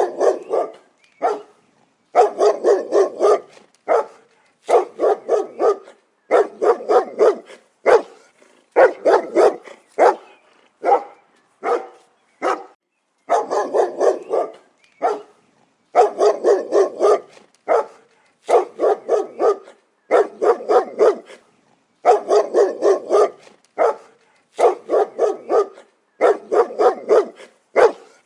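Dog barking in repeated runs of several quick barks, each run about a second long, with short pauses between.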